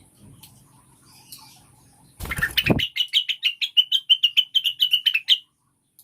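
Female cucak wilis (blue-winged leafbird) calling. About two seconds in comes a harsh rasping note, then a fast chattering trill of about eight notes a second that lasts some two and a half seconds.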